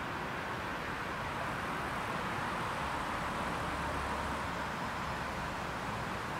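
Steady, distant rumble of a departing diesel-hauled passenger train, with a low hum that swells briefly past the middle.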